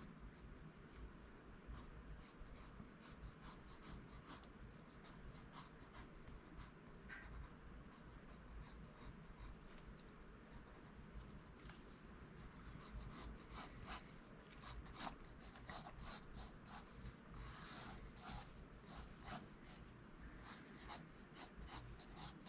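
Faint pencil strokes scratching on paper as a cartoon bird is sketched: many short strokes, coming thicker and louder in the second half.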